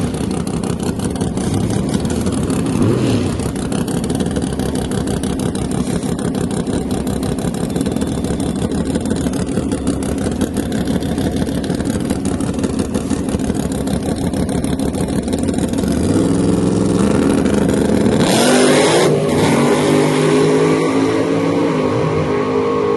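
Drag car engines running loud with a rough, choppy exhaust beat. Near the end one revs up, rising in pitch, with a sudden loud surge about eighteen seconds in.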